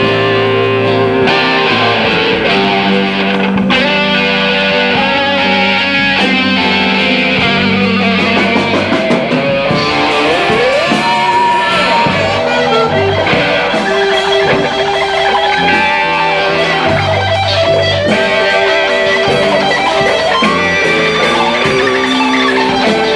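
A blues band playing live, with electric guitar lines that bend and slide in pitch over the rest of the band.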